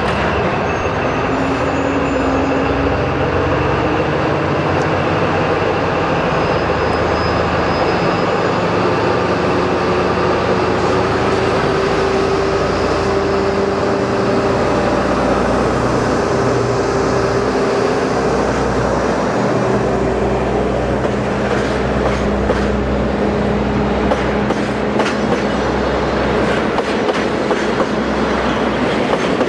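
KD55 103 diesel locomotive's engine running steadily as it hauls a tank-car freight train slowly past. In the second half the tank wagons' wheels clatter over the rail joints in repeated clicks.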